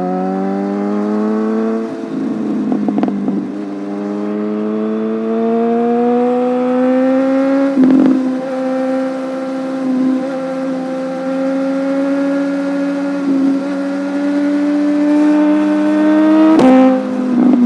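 Motorcycle engine pulling hard: the note rises, breaks briefly for an upshift about two seconds in, climbs again more slowly, then holds a nearly steady pitch with a few brief dips. A sharp click comes near the end.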